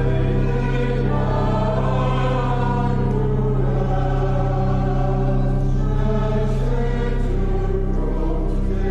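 Church choir singing an anthem in harmony over a steady held low accompanying note.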